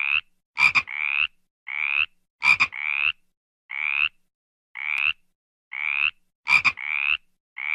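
A frog calling: a short, slightly rising note repeated about once a second, about nine times. A louder sharp double click comes after some of the notes, three times.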